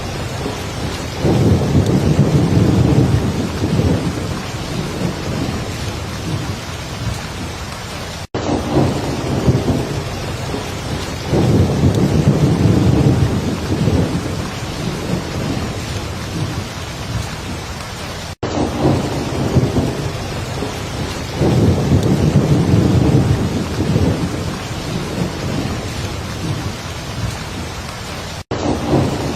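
Heavy rain falling steadily, with rolling thunder rumbling up about every ten seconds. The sound cuts out for an instant about every ten seconds.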